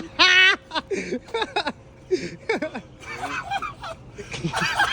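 People laughing and chuckling. There is a short, high, wavering laugh just after the start, then scattered snickers and voice sounds.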